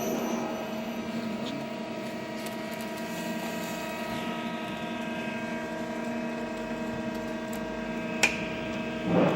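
Miyano JNC 45-S CNC lathe running with a steady machine hum made of several fixed tones, with a sharp click about eight seconds in.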